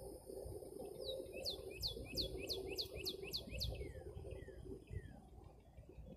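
A songbird singing a quick run of about eight sharp, high notes, each sweeping steeply downward, followed by three lower, slower downward slurs. A faint steady hum lies underneath.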